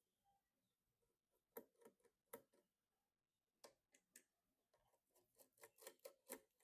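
Small sharp clicks and taps of computer parts being handled and fitted: about a dozen scattered ticks, with a quick run of them near the end.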